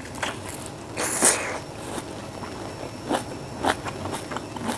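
Close-up biting and chewing of a small, juicy red fruit: a crisp bite about a second in, then short wet crackles of chewing.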